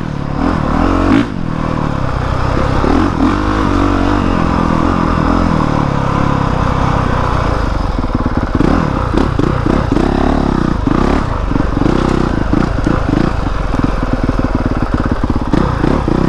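Honda CRF450R dirt bike's single-cylinder four-stroke engine being ridden, its revs rising and falling repeatedly with throttle blips, more often in the second half.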